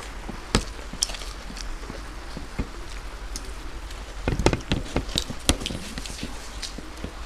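Crisp fried katori chaat cups being bitten and chewed: irregular sharp crunches and crackles, thickest about four to five and a half seconds in.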